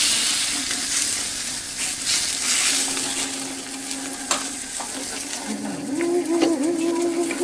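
Food sizzling as it fries on a street-stall griddle, with a sharp tap about four seconds in. A steady low hum comes in about three seconds in, and a wavering pitched tone joins it near the end.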